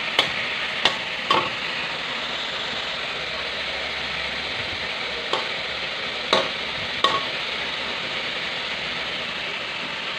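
Slices of pork offal and ginger sizzling steadily in an uncovered wok, with a metal spatula clinking and scraping against the wok about six times as the food is stirred.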